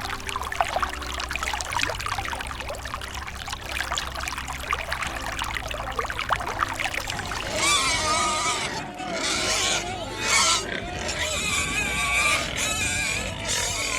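Splashing, trickling water, then from about halfway through a series of loud animal calls that waver in pitch, over soft background music.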